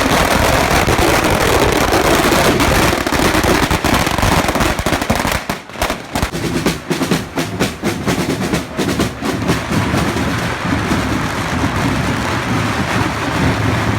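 Firecrackers (bangers) going off in quick, irregular succession: a dense crackle of sharp cracks over a steady noisy din, with the cracks thickest around the middle.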